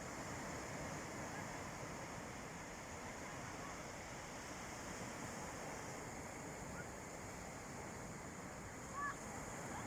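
Calm sea waves washing steadily on a beach, an even wash of surf. A brief high chirp sounds about nine seconds in.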